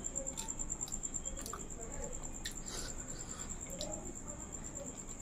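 Close-miked eating: soft paratha being torn and chewed, with scattered small mouth clicks and lip smacks and a bite near the end. A faint steady high whine runs underneath.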